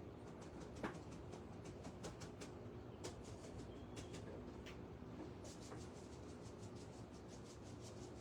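Seeds being poured and handled in a bowl of wildlife feed: irregular light ticks and rustles, several a second, with one sharper knock about a second in.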